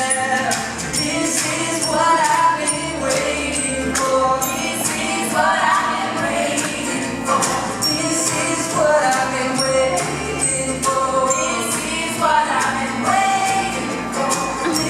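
Live band playing an upbeat pop song, with several voices singing together over jingling hand percussion such as a tambourine.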